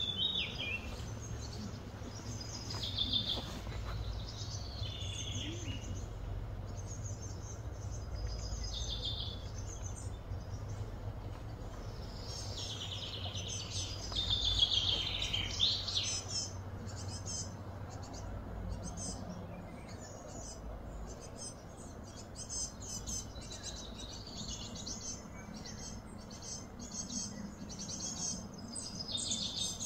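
Wild birds chirping and singing in short phrases, with a louder run of song about halfway through and quicker chips later, over a steady low hum.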